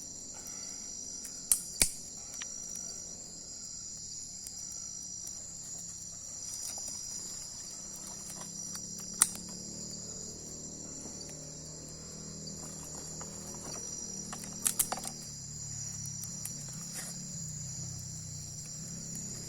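Night chorus of crickets, a steady high trilling. A few sharp snaps cut through it: two close together near the start, one near the middle, and a quick run of three about three-quarters of the way in.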